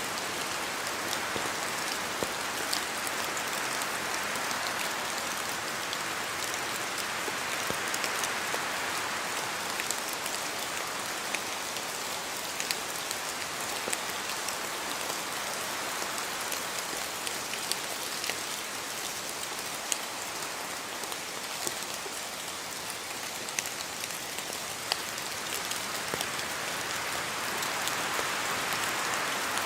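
Rain falling through spruce forest: a steady hiss of rain, with many separate sharp drops landing from the trees. The hiss swells a little near the start and again near the end, as wind moves through the branches.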